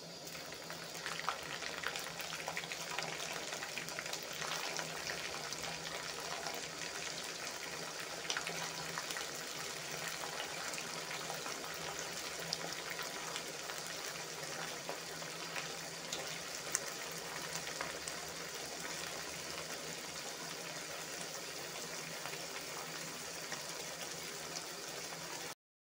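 Chicken hearts frying in hot oil: a steady sizzle with scattered small pops, which cuts off suddenly near the end.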